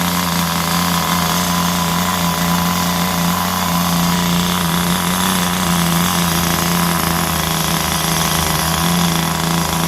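Small two-stroke engine of a vintage Compagnucci RC car idling steadily on a freshly adjusted carburettor, one even, unchanging note throughout.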